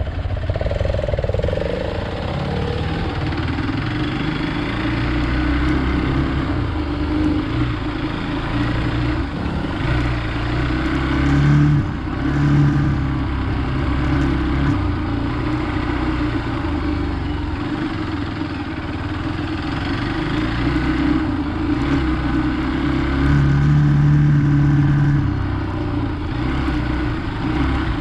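Hero Xpulse 200 single-cylinder motorcycle engine running in first gear with the clutch released, engine braking on an off-road descent. The pitch rises and falls, and the engine runs louder for a few seconds near the middle and again near the end.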